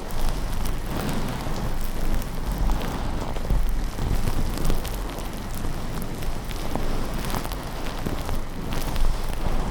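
Rain and thunder ambience: a steady rain hiss over a continuous low rumble, with many small sharp ticks and crackles throughout.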